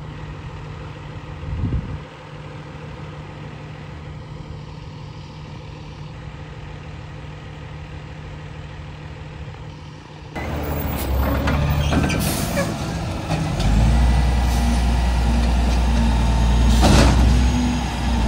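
Garbage truck's diesel engine idling steadily. About ten seconds in, a louder truck engine takes over and gets heavier a few seconds later. Short sharp air hisses come near the end, typical of air brakes.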